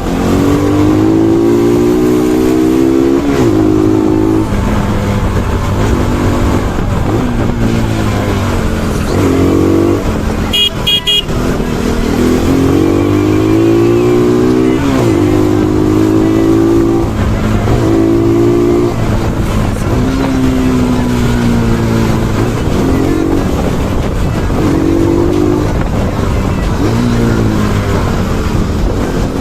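Bajaj Pulsar NS200 single-cylinder motorcycle engine ridden hard: the revs climb, drop back at each gear change, and climb again, over and over. There is a brief vehicle horn beep about ten to eleven seconds in.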